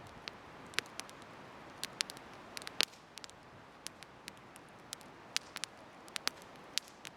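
Wood bonfire crackling: irregular sharp pops and snaps, a few a second, with one louder pop about three seconds in, over a steady soft hiss.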